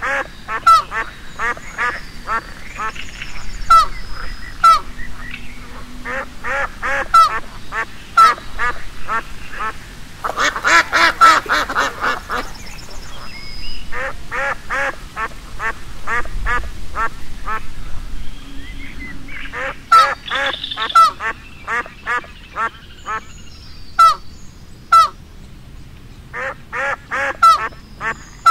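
Ducks quacking in quick runs of short calls, several birds overlapping about ten seconds in.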